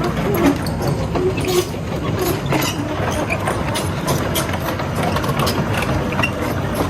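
Heavy diesel engines of an excavator and a mud-stuck truck running steadily, with scattered sharp knocks and clicks throughout.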